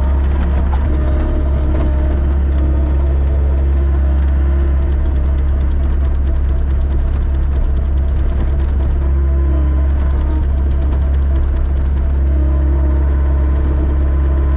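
Plow truck's engine running steadily with a strong low hum, with a faint quick ticking for a few seconds in the middle.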